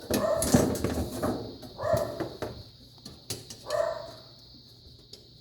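A dog barking: a longer outburst at the start, then single barks about two seconds in and near four seconds.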